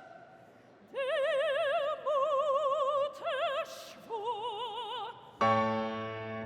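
Operatic singing: a voice with strong vibrato holds several long notes, some sliding up into pitch, after a brief hush. Near the end a sustained piano or keyboard chord comes in.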